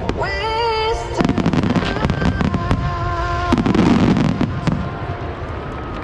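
Rapid volleys of fireworks shells bursting, many sharp bangs and crackling with a dense loud stretch in the middle, over a rock song with singing playing on loudspeakers. The singing fades after the first second, and a steady held note comes in near the end.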